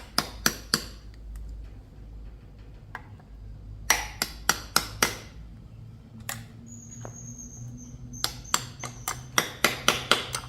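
Hammer tapping on motorbike metal parts in short runs of sharp strikes: a few near the start, a handful in the middle, and a quicker run of about ten near the end.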